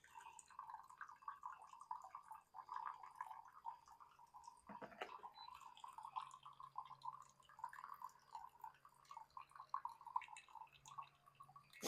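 Coffee dripping faintly and irregularly from a pour-over drip funnel into a mug, with one soft knock about five seconds in.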